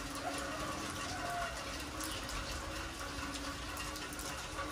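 Heavy rain falling steadily on a wet concrete yard, a dense, even patter of drops and splashing water.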